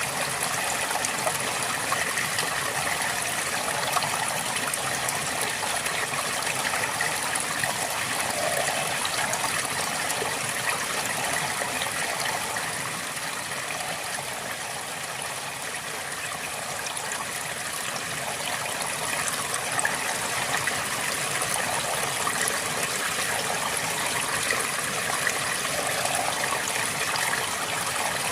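A river flowing steadily, water running and babbling over stones, with a slight lull around the middle.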